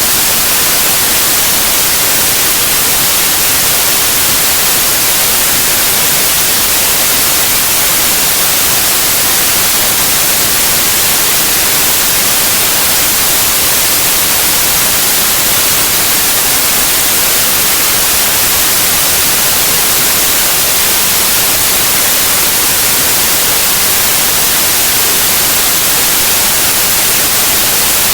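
Steady white noise: an even, unchanging hiss spread across all pitches, strongest in the treble.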